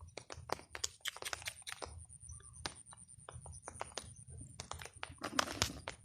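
Irregular taps of heavy raindrops striking close to the microphone, several a second, over a low steady rumble; a denser cluster of taps comes near the end.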